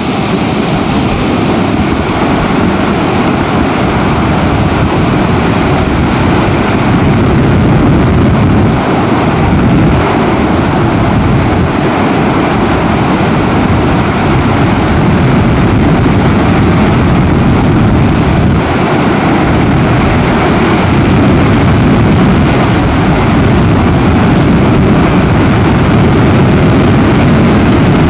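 Very strong storm wind buffeting the nest camera's microphone: a loud, steady rushing rumble that swells and eases slightly from moment to moment.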